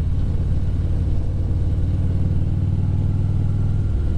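Motorcycle engine running at a steady speed while riding, a low, even engine note with a slight change in pitch near the end.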